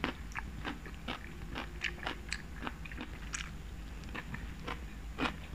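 Close-miked chewing of crisp pickled radish (danmuji): irregular soft crunches and wet mouth clicks, a few a second.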